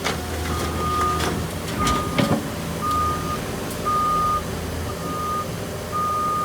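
A backup alarm beeping about once a second at one steady pitch, over a diesel engine running, as a new Cat mini excavator is loaded onto a truck. A few sharp clanks come near the start and about two seconds in.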